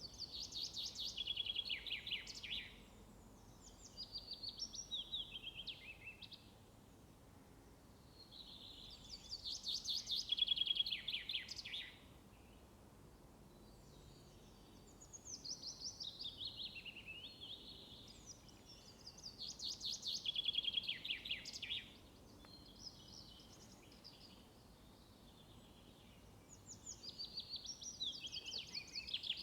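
Songbird singing a rapid trilled song, a phrase of two to three seconds that falls in pitch, repeated every few seconds over a faint steady outdoor background hiss.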